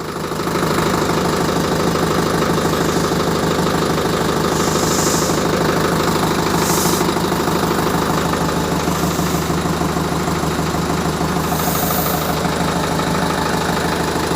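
Ace tractor's diesel engine running steadily at idle, coming up in level within the first second. A few short hisses sound over it.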